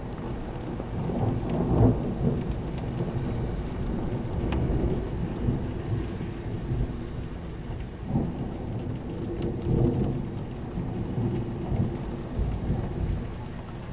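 Heavy rain falling during a thunderstorm, with a low rumble of thunder that swells and fades, loudest about two seconds in and again near ten seconds. A few sharp drop taps sound above it.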